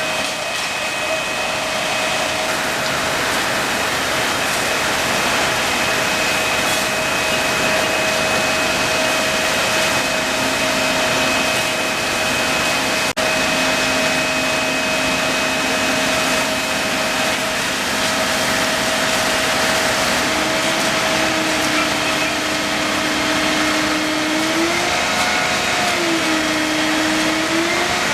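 Steady motor or engine noise, a constant hum over a wide hiss. About halfway through a lower tone joins in and then rises and falls in pitch several times. There is a brief drop-out about 13 s in.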